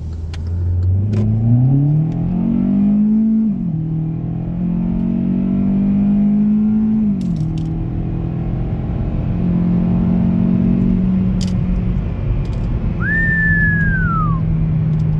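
2018 Hyundai Elantra's 2.0-litre four-cylinder engine under hard acceleration, heard from inside the cabin. The revs climb, drop at an upshift about three and a half seconds in, climb again to a second upshift about seven seconds in, then settle into steady running. Near the end a short whistle falls in pitch.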